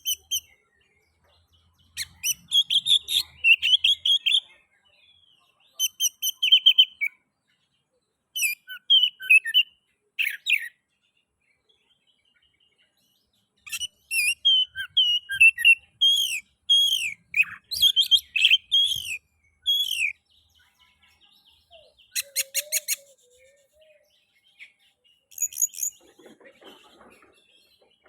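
Oriental magpie-robin singing in full song: bursts of quick, varied whistled and chirped phrases, separated by short pauses. It is the lively song used as a lure to set other magpie-robins singing.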